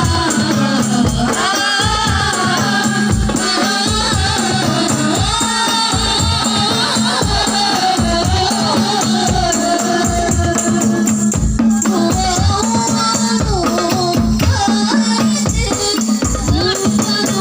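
Sholawat devotional music: voices singing a winding, ornamented melody over a steady beat of low drum hits and jingling percussion.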